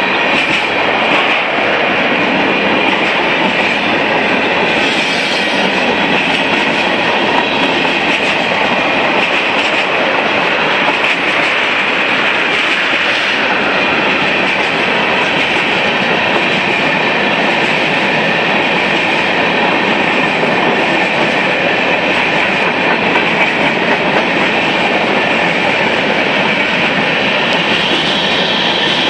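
Freight cars of a Union Pacific mixed freight train rolling past close by: a steady loud noise of steel wheels on rail, with a steady high-pitched wheel squeal running through it.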